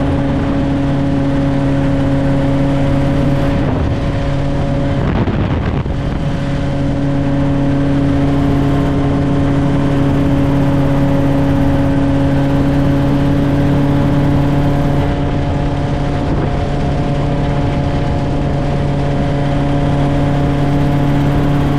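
Helicopter engine and rotor noise heard from on board: a loud, steady drone with several held tones, briefly disturbed about five seconds in.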